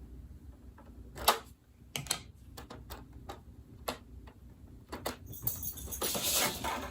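Plastic and cardboard toy packaging being handled: several sharp clicks and taps, the loudest about a second in, then a crinkling rustle near the end.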